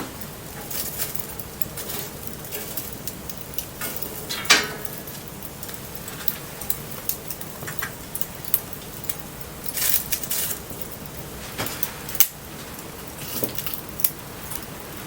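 Wood bonfire crackling, with irregular sharp pops and snaps and one loud pop about four and a half seconds in, over the steady hiss of light rain.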